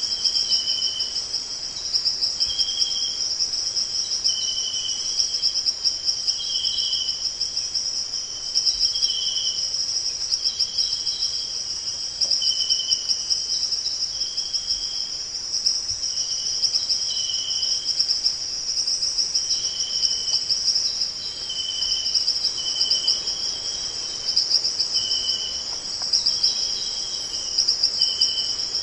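A steady, high, finely pulsing chorus of insects, with short high whistled notes repeating over it about every second or so.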